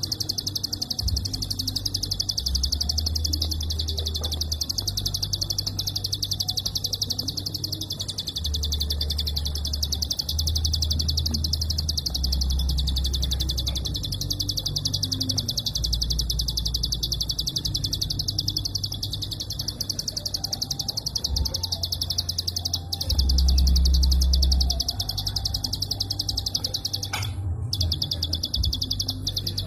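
Prinia (prenjak) singing its fast clicking 'klik' song: a high-pitched run of rapid clicks, close-packed and almost without pause, with a short break about 27 seconds in. An uneven low rumble runs underneath.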